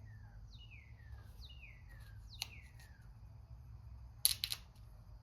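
A bird repeats a short call four times, about once a second, each call sliding down in pitch. Near the end come a few sharp clicks, the loudest sounds here, and a steady low hum runs underneath.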